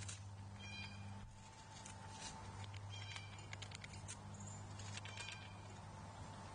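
Short bird calls at a feeder, each a brief cluster of high notes, coming every second or two, with a few faint clicks and a low steady hum beneath.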